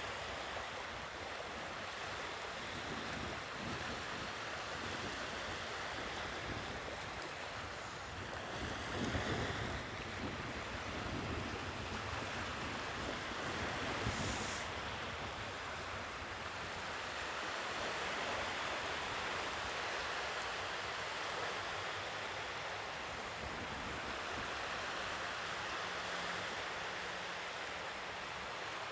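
Sea waves washing onto the shore in a steady rushing wash that slowly swells and eases, with a louder surge about a third of the way in.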